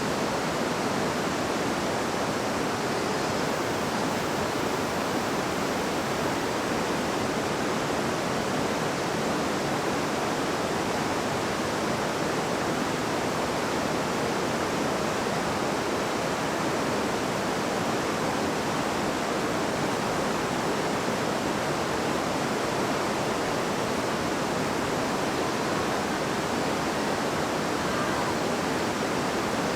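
A river babbling over rocks: a steady, even rush of flowing water with no pauses.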